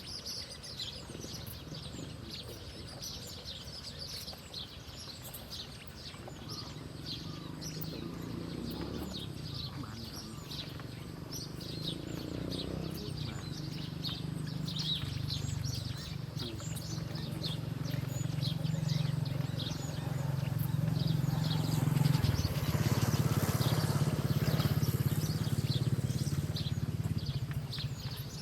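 Birds chirping and tweeting in many short, quick notes throughout, over a low steady rumble that grows from about a fifth of the way in and is loudest in the second half.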